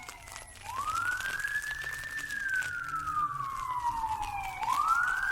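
Emergency vehicle siren wailing. Each cycle rises quickly and falls slowly over about four seconds, and a new rise starts near the end.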